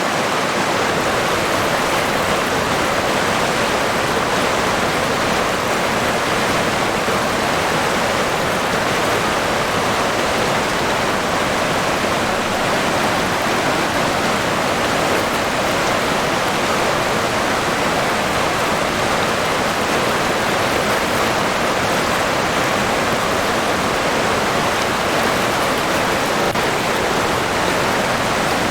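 River water flowing and rushing steadily, with no breaks or changes.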